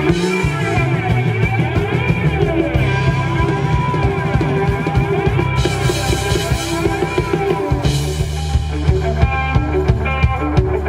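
Rock band playing live, with electric guitar, bass and drum kit keeping a steady beat and cymbals washing in a few times.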